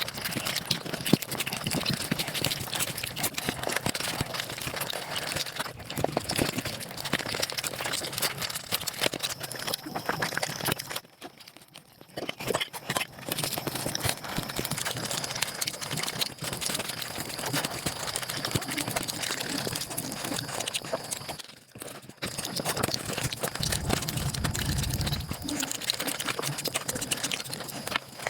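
Close-miked chewing and mouth sounds played back at five times normal speed: a dense, rapid run of clicks, smacks and crunches, with two brief lulls, one near the middle and one about three-quarters through.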